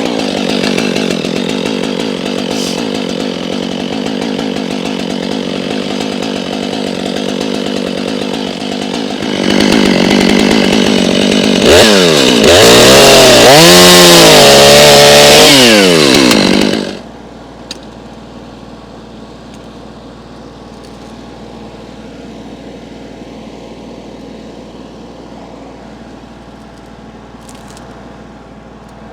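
Chainsaw starting up suddenly and running, then revved hard, its pitch swinging up and down for about five seconds. About seventeen seconds in it drops abruptly to a much quieter steady engine hum.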